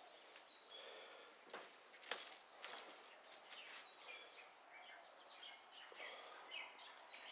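Faint room tone with small birds chirping outside through open louvred windows: short, high, falling chirps in little groups over a steady thin high-pitched whine, and a couple of soft knocks.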